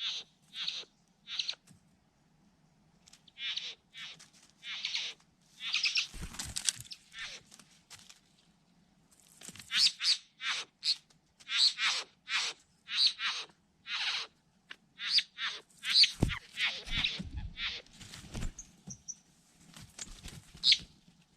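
Birds calling: a rapid series of short, sharp high calls, many sliding steeply down in pitch, coming in bursts with brief pauses. A few low thumps come in about six seconds in and again near the end.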